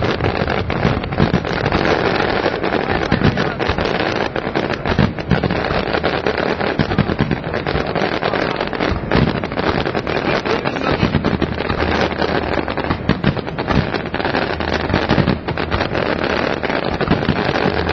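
Aerial fireworks going off in a dense, continuous barrage of overlapping bangs and crackles.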